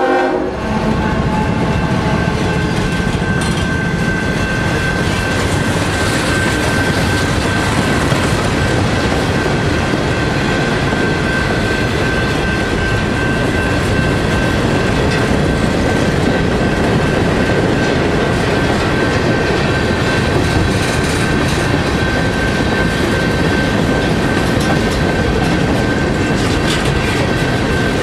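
Freight train cars rolling past close by, a steady rumble and clatter of steel wheels on rail with a steady high-pitched ring over it. The locomotive's horn cuts off right at the start.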